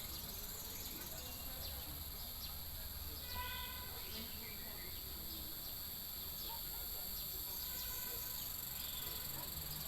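Steady high-pitched chirring of crickets or similar insects, fairly quiet, with a faint short pitched call about three and a half seconds in.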